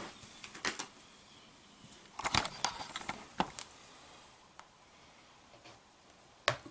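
Handling noises from fitting a peel-and-stick vinyl floor tile: scattered short taps and scrapes, busiest between about two and three and a half seconds in, with single ticks after that.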